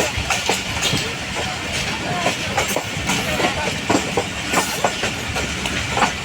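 Passenger train running on the track, its wheels clacking over rail joints in irregular knocks over a steady rumble.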